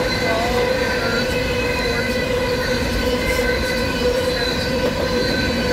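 Empty covered hopper cars of a grain train rolling past at about 65 mph: a steady, loud rumble of wheels on rail with several steady high ringing tones over it.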